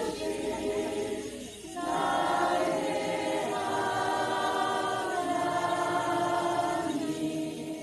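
A choir singing a praise song in Thai in sustained chords. It swells into a new chord about two seconds in, shifts again a little later, and fades near the end.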